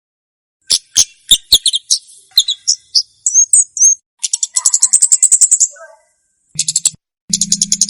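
Komade bird song: a string of sharp, high chirps and clicks, then fast high trills of about a dozen notes a second. A low hum runs under the trills near the end.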